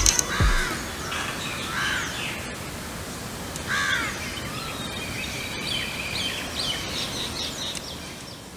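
Wild birds calling: short arching calls about a second and four seconds in, then a run of quick high chirps in the second half, over steady outdoor background noise.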